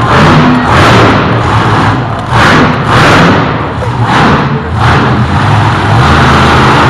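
Monster truck engine revving hard in repeated surges, roughly one a second, over a steady low rumble; very loud.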